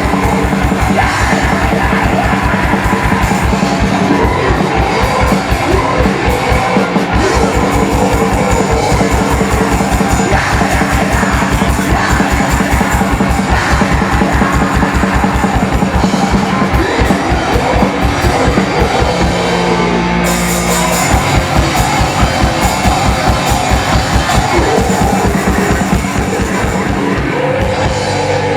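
A live rock band plays loud and fast: distorted guitars and bass over rapid drumming, with yelled vocals. About twenty seconds in, the drums drop out for a moment under a held note, then the band comes crashing back in.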